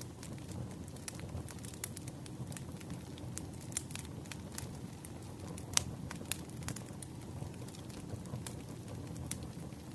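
Campfire crackling: a steady low rustle of burning wood with irregular sharp pops and snaps, one louder pop a little past the middle.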